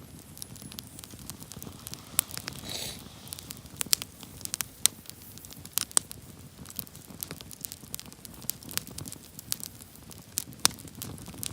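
Wood campfire burning: irregular sharp crackles and pops over a low, steady rumble of the flames, with a brief hiss about two to three seconds in.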